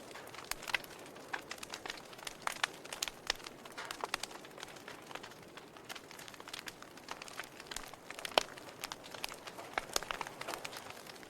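Wood fire crackling: irregular sharp pops and snaps over a soft steady hiss, with one louder pop about three-quarters of the way through.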